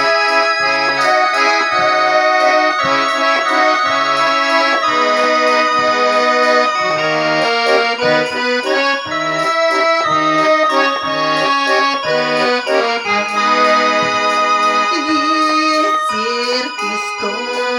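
Garmon (Russian button accordion) playing a melody in sustained reedy chords, with short bass notes from the left hand pulsing at regular intervals underneath.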